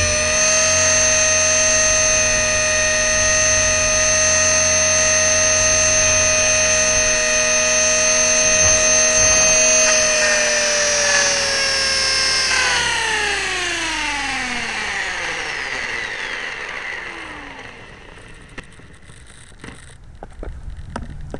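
E-flite Blade 400 RC helicopter's electric motor and drivetrain whining at a steady pitch, then winding down in a long falling glide about halfway through and fading out as the rotor spools down.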